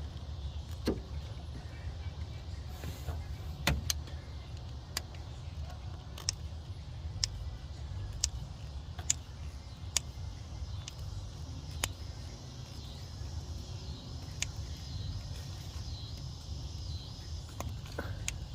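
Sharp metallic clicks, irregular and roughly one a second, from hand tools working steel hose clamps on a heater hose, over a steady low rumble.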